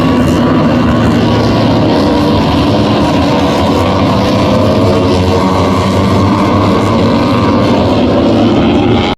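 MotoGP race bike engines running at high revs, a dense, steady, high-pitched engine sound with no break until it cuts off abruptly at the very end.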